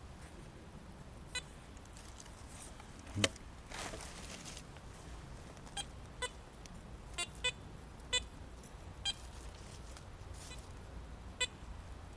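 Metal detector giving about eight short, irregular beeps as its coil sweeps over a target, which the detectorist takes for a thick piece of iron. A single sharp knock about three seconds in.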